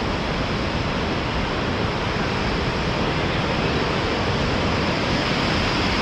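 Steady, loud rushing of fast-flowing water, an even roar with no breaks.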